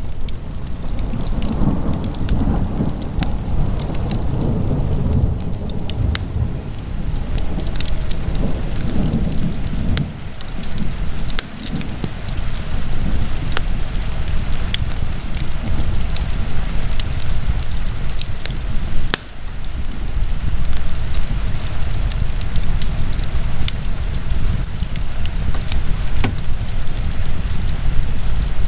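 Wood fire burning in a fireplace: a steady low rush of flames with frequent sharp crackles and pops scattered throughout, one louder snap about two-thirds of the way through.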